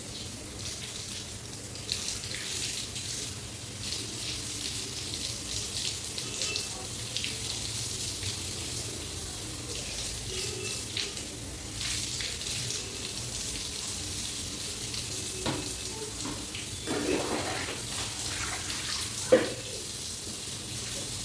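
Tap water running steadily and splashing onto long wet hair as it is washed under the tap. There are many small splashes and one short sharp knock near the end.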